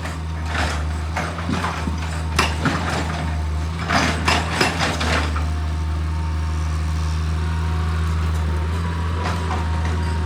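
Heavy machine's engine running steadily with a deep hum, with a series of sharp metallic clanks and rattles through the first half that then die away.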